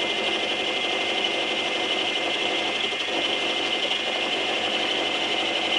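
Metal lathe running with a milling attachment, the cutter taking a light pass of a few thousandths in metal: a steady, even grinding hiss over the machine's hum. It is cutting smoothly, with no chatter or sudden grabs.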